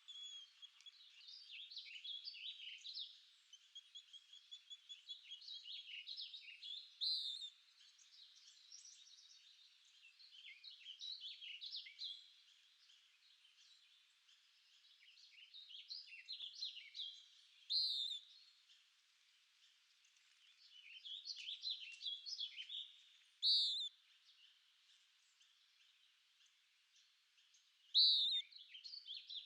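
Songbirds singing: chirping, trilling phrases of a few seconds each, separated by short pauses. A loud, sharp, high note rings out about every five seconds over the song.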